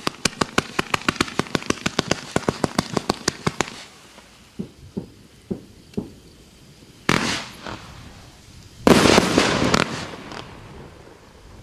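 A 134-shot combination fireworks cake (battery) firing: a rapid volley of sharp shots, about eight a second, for nearly four seconds. A few duller pops follow, then two loud crackling bursts about seven and nine seconds in.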